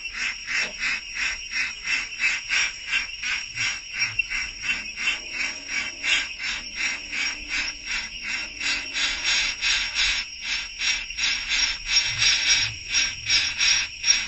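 Small birds chirping continuously in a fast, even run of short high notes, about four a second.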